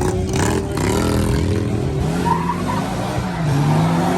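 Car tyres squealing under a hard-revving engine, the engine pitch rising and falling as the revs change: a burnout or donut.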